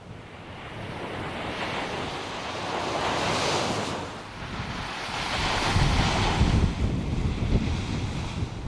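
Waves breaking and washing up a beach, swelling twice, with wind buffeting the microphone hard about six seconds in.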